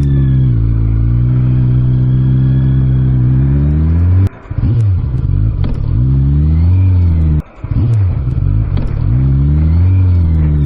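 Motorcycle engine pulling under load, the revs climbing and then dropping sharply at two gear changes, about four and seven and a half seconds in, before climbing again.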